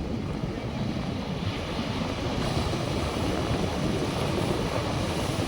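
North Sea surf washing onto the beach, a steady rushing rumble, with wind buffeting the microphone.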